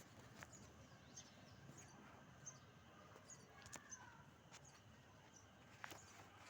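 Faint, high-pitched cheeps of nestling birds: short peeps repeating about once or twice a second, with a few soft clicks among them.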